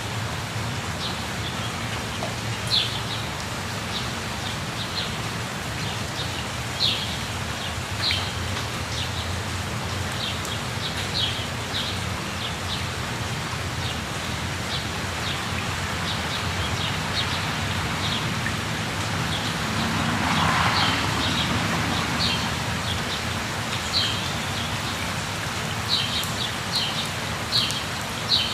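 Steady rush of a waterfall, with birds chirping over it: short high chirps every second or two, coming thicker near the end. The water noise swells briefly about two-thirds of the way through.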